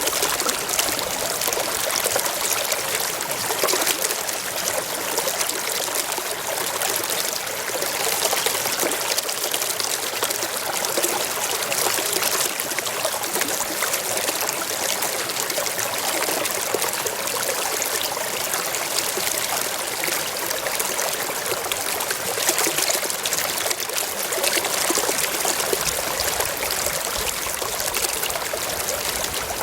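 Shallow stream running and trickling over rocks, a steady bright splashing.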